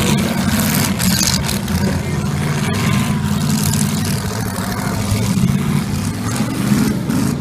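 Several demolition derby V8 engines running and revving together under a steady hiss, one engine's pitch rising near the end.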